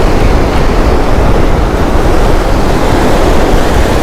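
Ocean surf breaking on the beach, mixed with wind buffeting the microphone: a loud, steady rushing noise.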